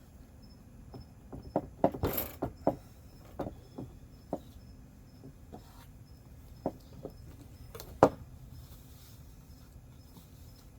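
Scattered clicks and knocks of plastic pipe fittings being handled and pressed together, with a brief scrape about two seconds in and a sharper knock near eight seconds. A cricket chirps faintly and steadily behind it.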